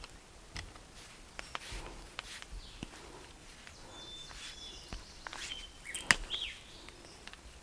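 Scattered clicks and rustling of footsteps and handling, with a few short, high bird chirps between about four and six and a half seconds in. A sharp click about six seconds in is the loudest sound.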